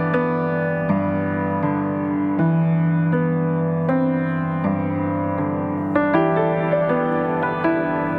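Background piano music: slow, sustained notes, a new one struck about every three quarters of a second.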